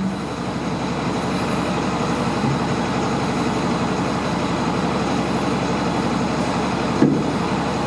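International DT466 diesel truck engine idling steadily, with a single short knock about seven seconds in.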